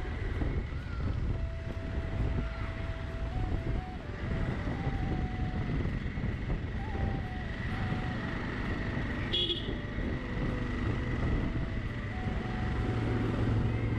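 Steady engine and road rumble of a moving scooter, with a short sharp sound about nine and a half seconds in.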